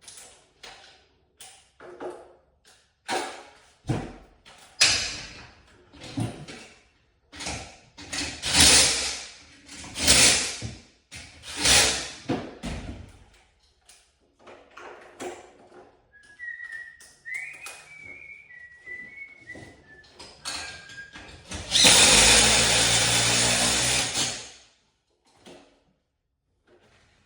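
Power drill run in a series of short trigger bursts, then one longer run of about two and a half seconds near the end, the loudest part.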